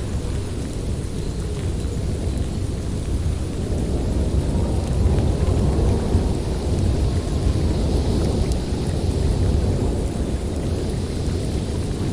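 Snowstorm wind blowing steadily with a deep rumble and a hissing top that builds toward the end.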